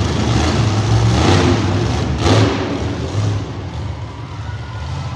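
Monster truck engine running loudly, with two short rushes of noise about a second and two seconds in, then easing off.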